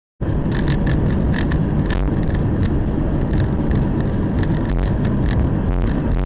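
Car on the move: steady, loud road and engine rumble with scattered sharp clicks and rattles, cutting in abruptly a moment in.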